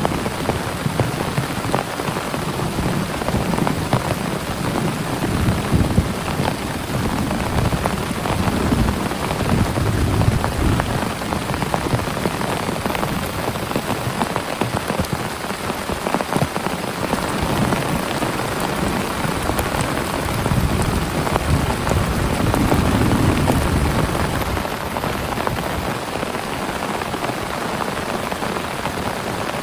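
Heavy rain falling steadily, a dense patter of drops, with low swells that rise and fade every few seconds.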